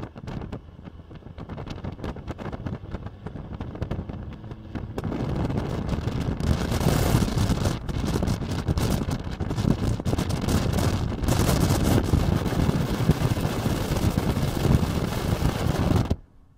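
A Dodge pickup's 5.9 Cummins turbo diesel running under way, with heavy wind buffeting the microphone. The rush grows louder about five seconds in and cuts off abruptly near the end.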